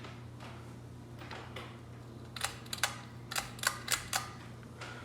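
Steady low hum of a Hampton Bay Glendale ceiling fan running with its blades out of balance, so that it wobbles. About halfway through comes a quick, uneven run of about eight sharp clicks.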